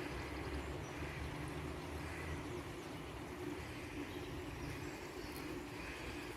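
Steady outdoor background ambience: a continuous low rumble with an even hiss above it.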